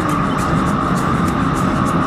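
Suzuki GSX-S150's single-cylinder engine running on the move, its pitch dropping slightly just after the start, with road and wind noise. Background music with a steady beat plays over it.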